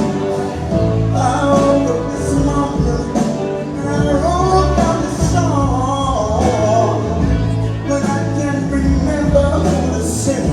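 Live band music: a slow soft-rock ballad passage with a winding lead melody over sustained chords, bass and a steady drum beat.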